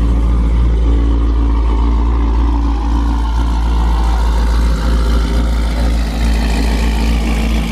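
Car engine running loud and steady at one speed, a deep low rumble with no revving.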